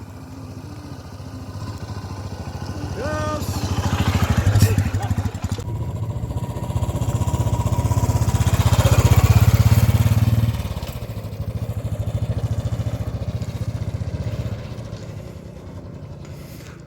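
Motorcycle engines running and revving, the low pulsing exhaust note swelling to a peak about four seconds in and again around the middle, then dying away as the bikes pull off or pass.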